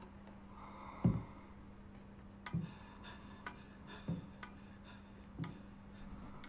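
Slow, heavy breathing through a latex horror mask close to the microphone: a breath puff hits the mic about every one and a half seconds, with a few faint clicks between, over a steady low hum.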